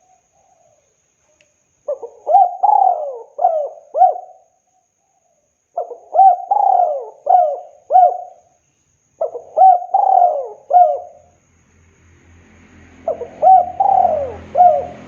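Spotted dove (tekukur) cooing its song four times, each phrase a quick run of several swooping coos. A low hum rises under the last phrase.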